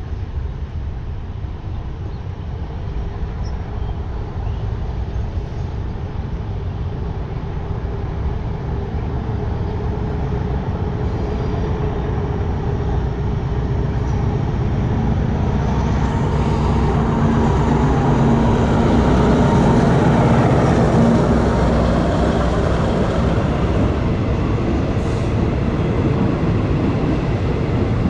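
Alsthom diesel-electric locomotive hauling a passenger train, its engine growing steadily louder as it approaches and then passing at its loudest a little past the middle. The coaches follow, their wheels rolling over the rails.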